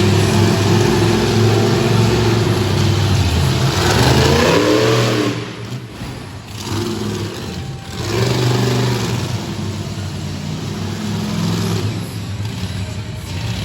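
Monster truck engine running loud and revving hard, its pitch climbing around four seconds in and again around eight seconds in, with a quieter lull between the two climbs.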